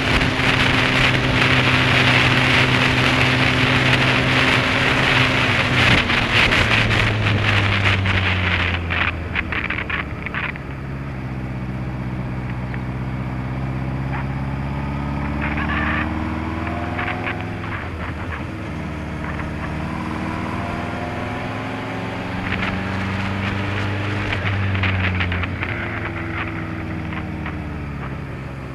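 Honda CBF600S inline-four engine running under way, with heavy wind noise on the microphone for the first several seconds. The wind then dies down and the engine note drops, then rises and falls several times as the bike accelerates and eases off through the bends.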